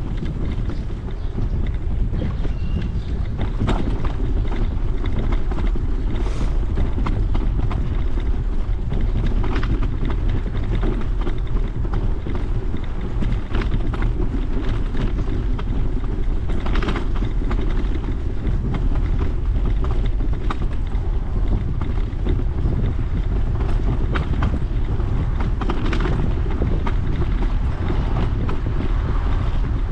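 Wind buffeting the microphone of a camera riding on a moving bicycle, a loud steady low rumble, with scattered knocks and rattles from the ride over the trail.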